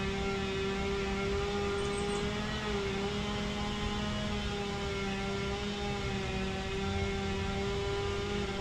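A steady motor hum with a pitch that dips slightly twice.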